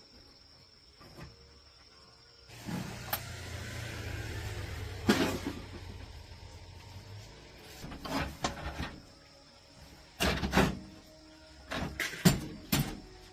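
A motor runs with a steady low hum for about four seconds, then stops; after it come a string of separate knocks and clanks of tools or parts being handled.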